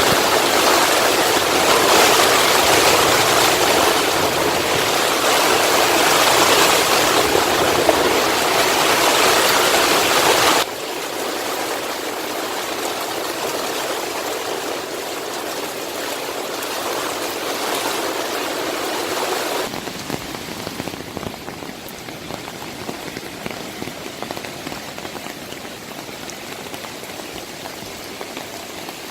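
Heavy rain and a rain-swollen, flooded mountain stream rushing, a steady water noise. It changes abruptly twice, about 11 and 20 seconds in, getting quieter each time.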